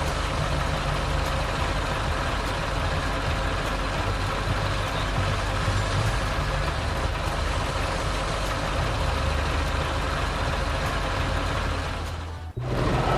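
Heavy diesel engine of construction machinery running steadily, with a low rumble, cutting off abruptly near the end.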